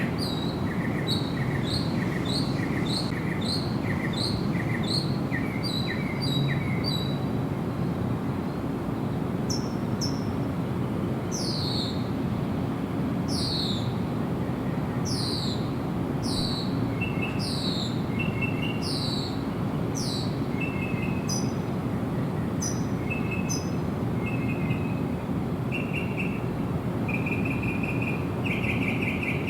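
Songbirds singing over a steady low rushing background. Several bird voices follow one another: a run of quick repeated chirps, then clear downward-sliding whistles about once a second, then short rapid trills, each repeated many times.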